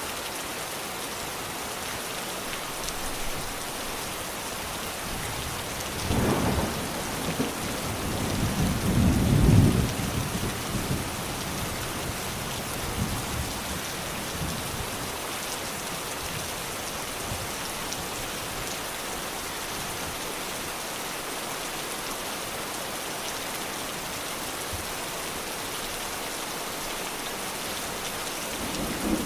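Steady heavy rain falling, with thunder rumbling from about six seconds in to about ten seconds in.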